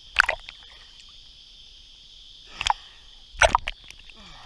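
A steady, high-pitched insect drone with three loud, sudden knocks: one just after the start, one about two and a half seconds in, and a double one half a second later.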